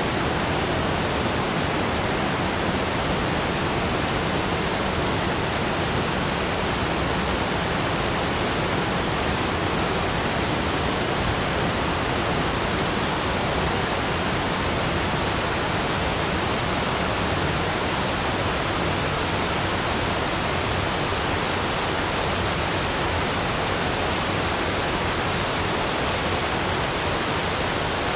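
Cascading waterfalls: a steady, even rush of falling water with no change in level.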